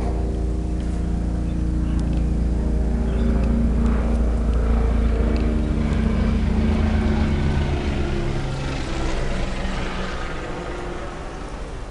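A motor running with a steady, pitched hum that shifts slightly in pitch, then fades away over the last few seconds.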